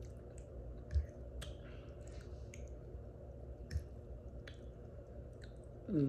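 Close-miked chewing of soft, saucy food: scattered wet mouth clicks and squishes over a steady low hum, with two low thumps. A voice sliding down in pitch starts right at the end.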